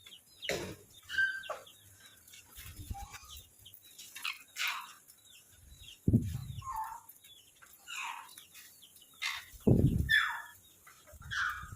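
Caged birds chirping and calling repeatedly, with overlapping short falling calls. Two loud, low thumps, about six and ten seconds in.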